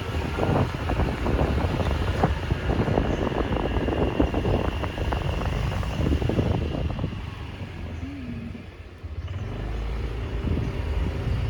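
A moving road vehicle heard on the go: engine and road noise with a rough, gusting low rumble. It eases off briefly about eight seconds in, then picks up again.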